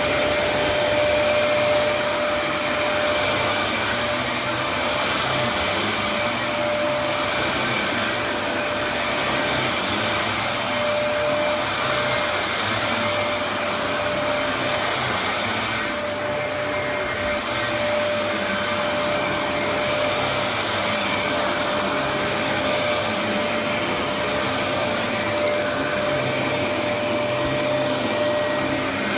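Dyson DC07 upright vacuum cleaner running while vacuuming a floor, a steady motor noise with a constant whine. The high hiss drops away briefly about halfway through.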